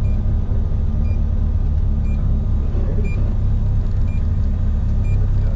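Rally car engine running steadily with a low, even rumble. A short, high electronic beep sounds about once a second over it.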